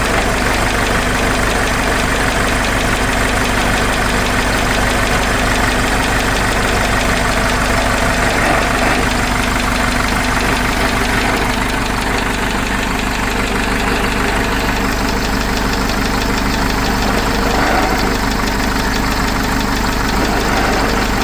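Cummins 4BT four-cylinder diesel engine of a Case 586E forklift running steadily, on a test run after a teardown to find out whether its knock is cured.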